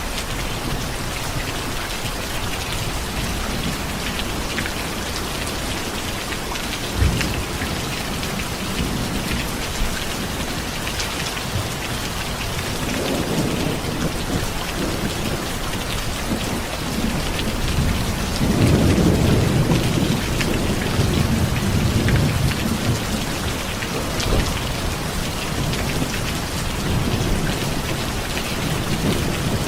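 Steady heavy rain hissing and pattering, with thunder: a sharp low crack about seven seconds in and rolling rumbles that swell in the middle and peak a little past halfway.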